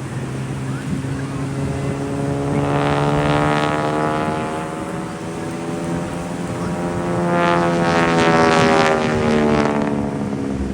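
Propeller airplane flying past, a steady engine drone that swells twice, about three and eight seconds in, its pitch sinking slightly near the end.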